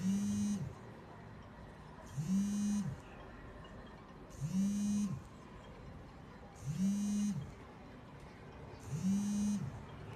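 Sharp twin-tub washing machine motor running in short bursts, five times, about every two seconds. Each burst is a hum that rises in pitch and then falls as the motor winds up and coasts down, with a whirring hiss on top.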